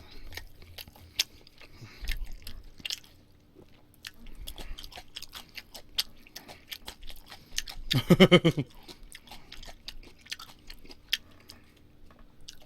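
Close-miked chewing of a mouthful of barbecued meat: many small wet smacks and clicks of the mouth, with a brief vocal murmur about eight seconds in.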